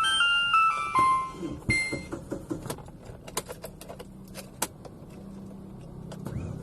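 An electronic start-up chime of a few stepped notes, then the car's starter cranking sluggishly in quick pulses for about a second and a half before the engine catches and settles to a steady idle. The weak cranking is the sign of a tired two-year-old battery that no longer holds its charge.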